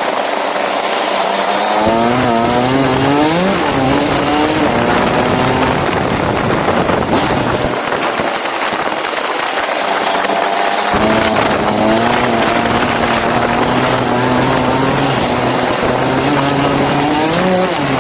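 Go-kart engine running under load, rising in pitch on acceleration, holding steady, easing off and picking up again, over a steady hiss.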